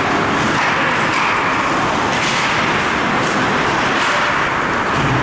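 Steady, loud rushing noise of ice-rink ambience during a youth hockey game, with a few brief hissing scrapes.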